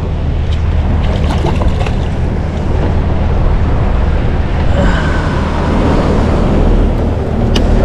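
Small fishing boat's motor running with a steady low hum, with wind buffeting the microphone and water noise over it. A single sharp click comes near the end.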